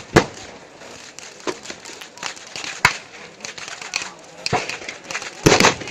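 Firecrackers banging sharply at irregular intervals over a crowd's background chatter, with a louder cluster of cracks near the end.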